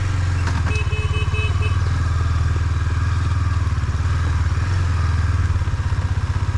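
KTM Duke 250 motorcycle's single-cylinder engine running steadily at low revs. A short pulsing beep sounds about a second in.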